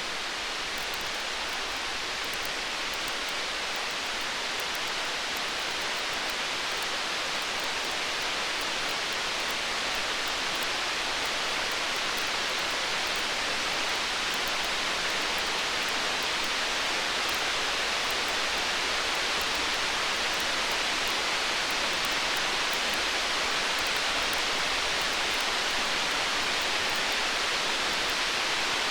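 Steady even hiss of a stormy-night ambience, growing slightly louder over the stretch, with faint fine crackling throughout and no thunder rumble.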